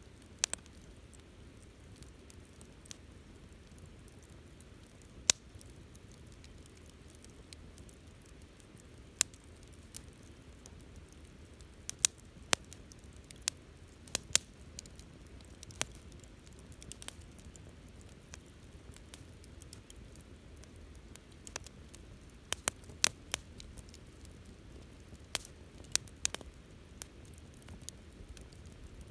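Wood campfire crackling: sharp, irregular pops, some in quick clusters, over a low, steady background of the burning fire.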